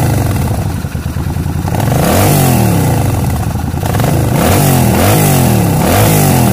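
Twin-cylinder V-twin motorcycle engine revved in four short throttle blips, each rising and falling back to idle, while its two carburettors are checked for synchronisation on vacuum gauges.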